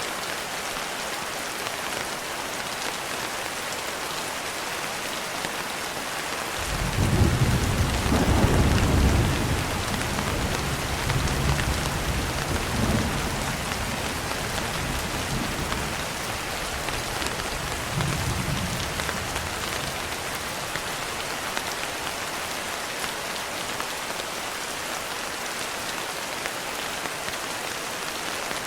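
Steady rain with a long roll of thunder. The thunder comes in about a quarter of the way through, is loudest in its first few seconds, then rumbles on in weaker swells and dies away a little past the middle, leaving only the rain.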